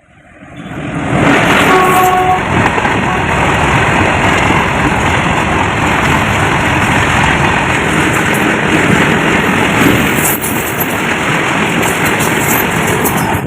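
A train passing close by: a loud, steady rush and rumble of wheels on the rails that builds over the first second or so and holds for about twelve seconds.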